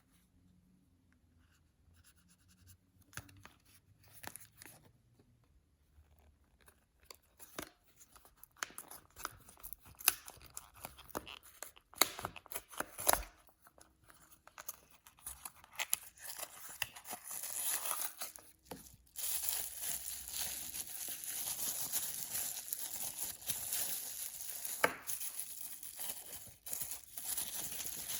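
Toy packaging being handled and opened by hand: scattered light taps and rustles at first, then from about halfway a continuous crinkling and tearing of wrapping.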